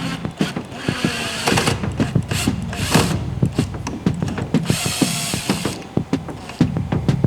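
Workshop tool noise during disassembly of a wooden danjiri float: a run of sharp clicks and knocks, with a longer whirring burst from a tool about five seconds in.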